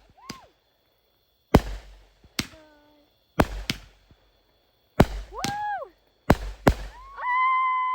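Consumer fireworks going off: a string of about seven sharp bangs at uneven intervals. High-pitched whoops from the people watching come between the bangs, with a long held one near the end.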